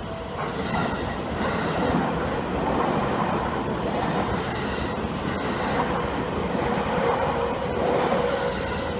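Seibu 10000 series Red Arrow electric train passing over a level crossing, its wheels clattering on the rails, and growing louder about a second in as it arrives. A level-crossing bell rings with a steady tone.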